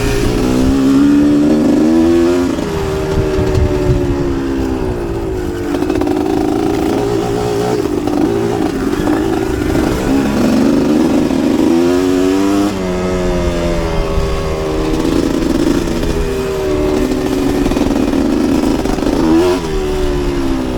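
Two-stroke motocross dirt bike engine under hard riding. Its pitch climbs and drops back again and again as the throttle opens and closes and the gears change.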